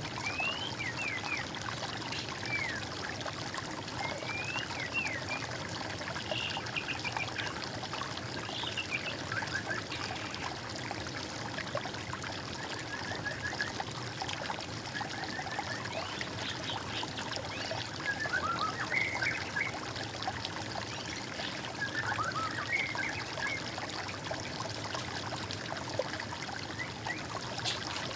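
Small stream of water trickling steadily, with songbirds chirping in short, quick phrases scattered throughout.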